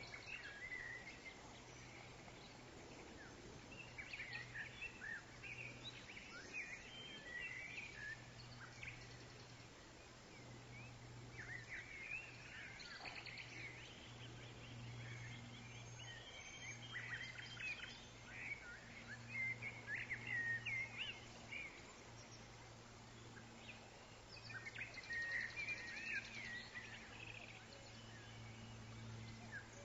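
Woodland songbirds chirping and trilling in scattered clusters, over a faint steady background hum and noise.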